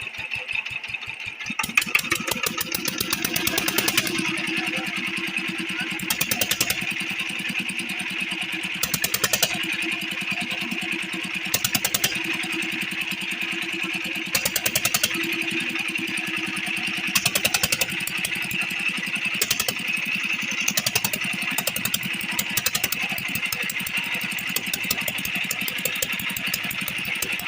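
8 HP single-cylinder diesel water-pump engine running with a steady, rapid chugging, getting louder about two seconds in.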